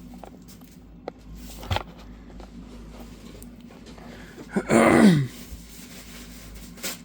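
A person's short groan that falls in pitch, loud, about two-thirds of the way through. Faint clicks and knocks come before and after it.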